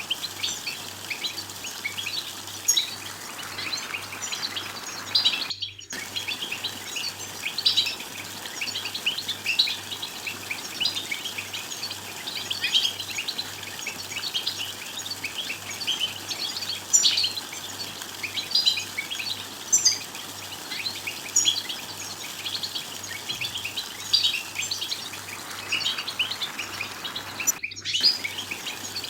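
European goldfinches twittering and chattering: a dense run of quick, high chirps with no pause. Two brief breaks come about six seconds in and again near the end.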